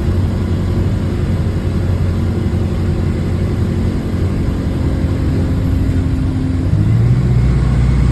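Diesel bus engine heard from inside the moving bus, running with a steady rumble; about seven seconds in its note steps up and gets louder as it pulls harder. The bus has an exhaust leak.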